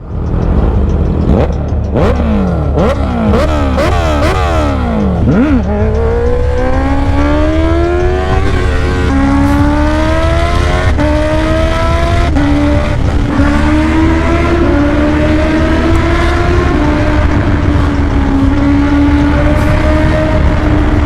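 Honda CBR650R's inline-four engine through a Black Widow exhaust with the dB killer removed, very loud. For the first five seconds or so it is revved up and down in quick blips; then it accelerates, the pitch climbing steadily and dropping back at each upshift.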